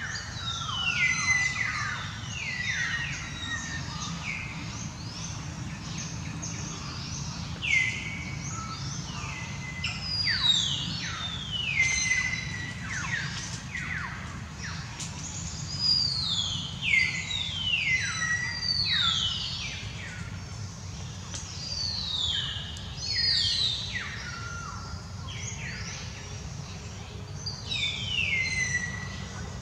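Birds singing: clusters of quick, high whistled notes that each slide downward, coming again every few seconds, over a steady low background rumble.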